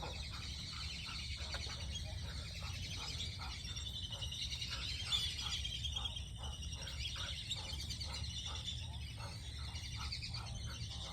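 A flock of Muscovy ducks and other poultry calling, short calls repeating about twice a second, over steady high chirping and a low, constant hum.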